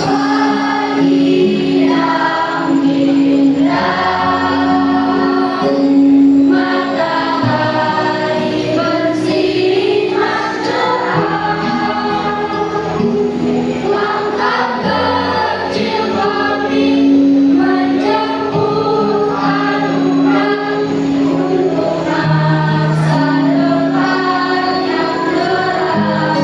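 Choir singing in parts over a steady instrumental accompaniment.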